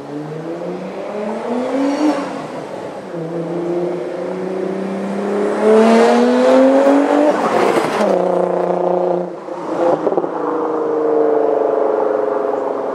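2000 Audi S4's twin-turbo 2.7 L V6 through a custom 3-inch exhaust, accelerating hard: the revs climb, drop at a gear change about two seconds in, climb again to the loudest point around six to seven seconds, then fall away; after a brief dip near nine seconds the engine note sinks slowly.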